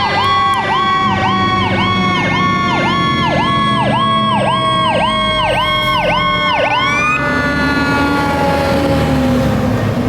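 Fire truck sirens: an electronic siren cycling rapidly, about twice a second, cuts off about seven seconds in, while a second siren winds down in a slow, steady falling pitch. Near the end the loud engine noise of the passing fire apparatus takes over.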